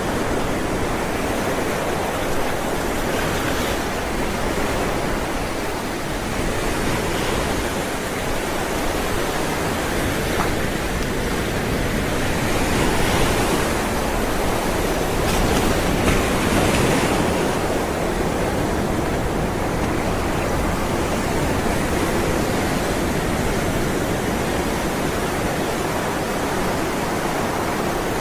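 Ocean waves rolling and breaking on a shore, a steady wash of surf that swells and eases every few seconds.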